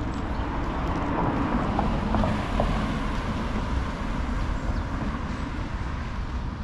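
A vehicle passing on the street: a noisy rumble that swells during the first few seconds and then slowly fades.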